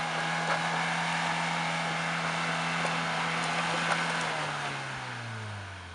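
Car engine held at steady high revs, then the revs drop and the sound fades over the last second or so.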